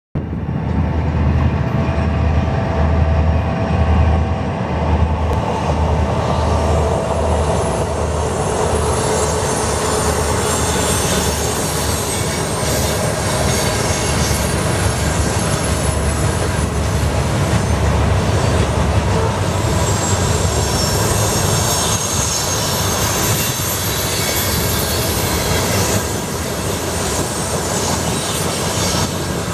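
Freight train of loaded hopper cars rolling past, wheels clattering on the rails with a thin squeal from the wheels. A pulsing low throb from the diesel locomotives is heard for the first several seconds.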